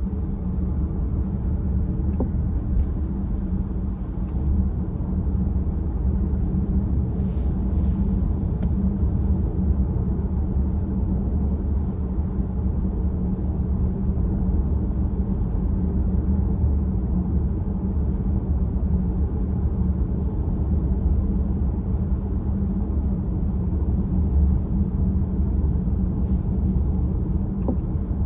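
Steady low rumble of a car on the move, with a couple of faint, brief clicks about 3 and 8 seconds in.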